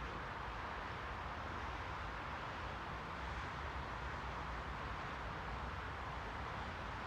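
Steady white noise: an unbroken, even hiss, strongest in the middle range, with a low rumble underneath.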